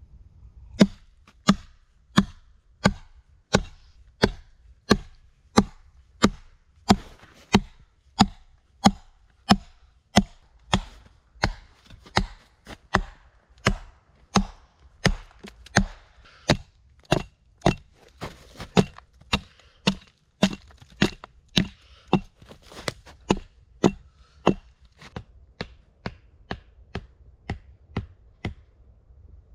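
Axe chopping wood for a campfire: a long, even run of sharp blows, about one and a half a second, growing somewhat lighter near the end.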